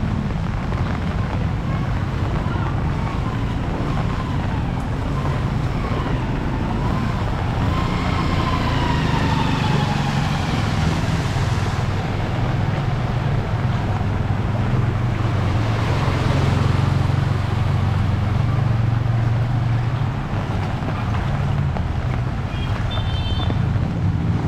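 Steady street noise in heavy rain and wind: a low rumble of motor vehicles, louder in the second half, with a wavering whine that glides up and down in the first half and a brief high beep near the end.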